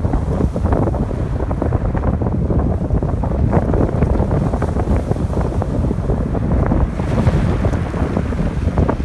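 Strong wind buffeting the microphone with a loud, low rumble over ocean waves on the shore; a brighter hiss of surf washing in rises about seven seconds in.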